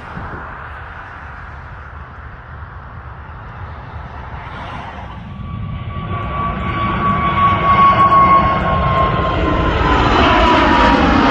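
Airbus A320neo jet engines at takeoff power: a low rumble that grows louder about halfway through as a high engine whine comes in and slowly drops in pitch as the airliner passes.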